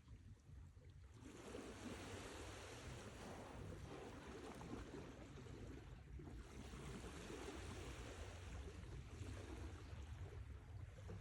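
Sea waves washing in, faint: a brief lull at the start, then a wash building about a second in, with another slight lull about halfway through.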